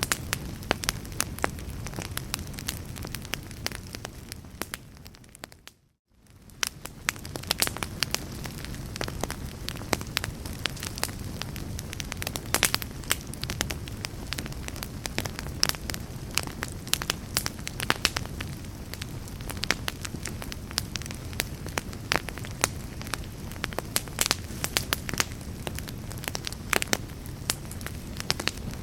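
Wood fire burning in a fireplace: a steady low rustle of flames with frequent sharp crackles and pops from the burning logs. The sound fades down almost to silence about six seconds in, then swells back up.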